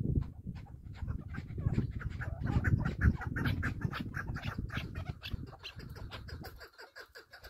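A bird calling in a fast series of short clucking notes, over a low rumble.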